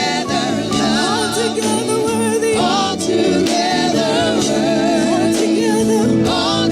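Gospel worship music: voices singing with vibrato over sustained keyboard or organ chords.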